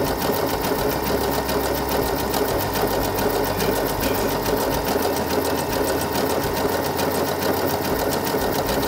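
Brother NQ470L computerized sewing machine running at a steady speed, needle stitching an overcasting (imitation overlock) stitch along the edge of denim with a rapid, even rhythm.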